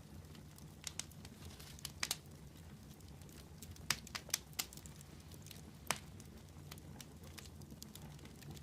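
Wood campfire crackling: irregular sharp pops and snaps from the burning wood, with a cluster of louder pops about four seconds in and another near six seconds.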